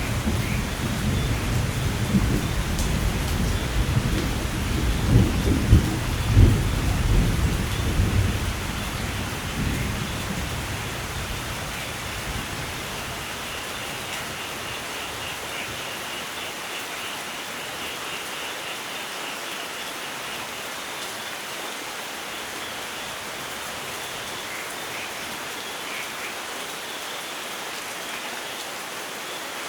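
Steady rain falling, with a long rolling rumble of thunder that dies away about ten to twelve seconds in, leaving only the even patter of rain.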